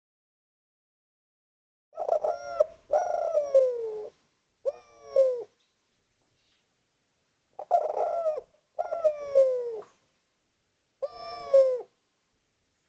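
Spotted dove (derkuku) cooing: two phrases of three coos each, the first starting about two seconds in and the second about seven and a half seconds in, each coo sliding down in pitch.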